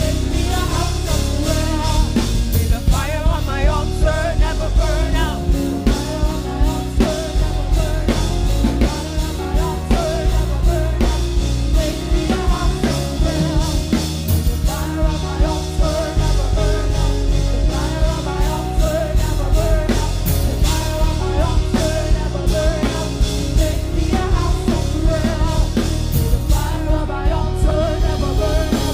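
Live worship music: a band with a drum kit plays a steady beat under a singing voice.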